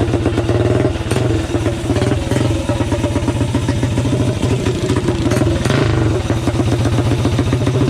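Mini bike engine running steadily under throttle, with a rapid, even firing pulse.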